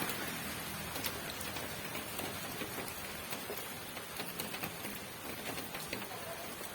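Steady rain falling: an even hiss of rain, dotted throughout with the short ticks of individual drops hitting a surface.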